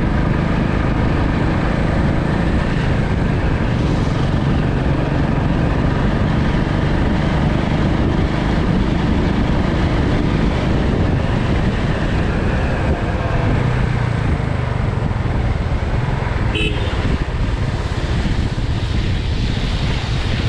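Motorcycle running at road speed: a steady engine hum under a constant rush of noise. A short high tone sounds once, about sixteen and a half seconds in.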